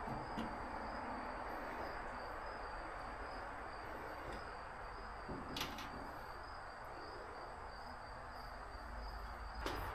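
Quiet background noise with a faint steady high-pitched whine, broken by two light clicks, one about halfway through and one near the end.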